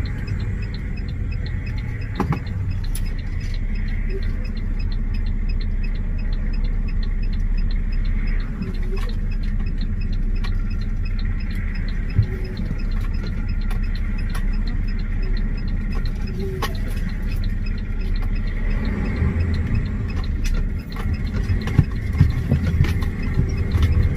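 Semi truck's diesel engine running with a steady low rumble, with a faint, fast, regular ticking over it.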